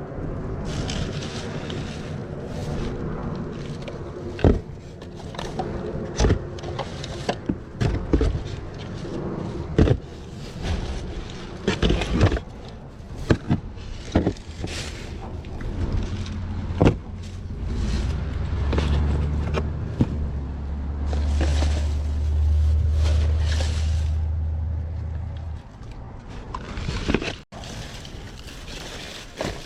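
Rummaging through dumpster trash: repeated knocks and clunks of items being moved, with scraping and rustling between them. In the second half a steady low rumble runs for several seconds, then stops.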